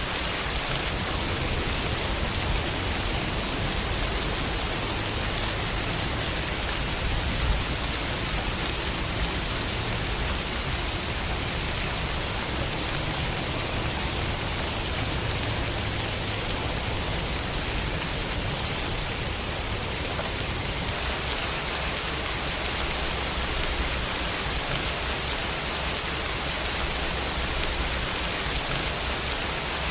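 Steady rain falling, an even hiss of drops on surfaces with no let-up, and a single faint louder patter about seven seconds in.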